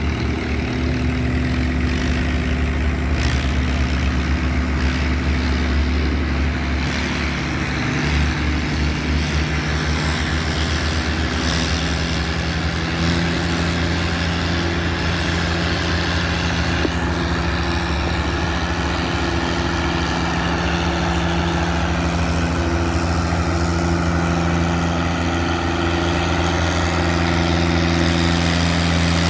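Pulling tractor's engine running steadily and loudly, its pitch stepping up slightly about twelve seconds in.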